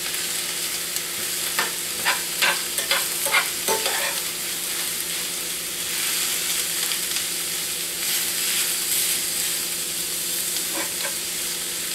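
Chopped pork and cabbage sizzling in a cast iron skillet, heating through, while a metal spoon stirs them, scraping and clicking against the pan several times about 1.5 to 4 seconds in and twice more near the end.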